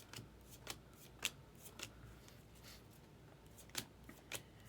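Topps Heritage baseball cards being flipped through by hand, one card slid off the stack after another, giving faint snaps and clicks at irregular intervals about every half second.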